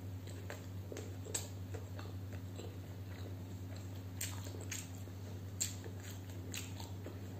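Close-miked mouth sounds of eating a curry-coated boiled egg by hand: a bite, then soft chewing with scattered wet clicks. A steady low hum runs underneath.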